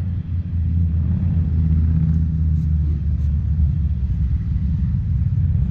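A steady, low engine rumble, like a vehicle's engine running, with no sharp knocks or impacts.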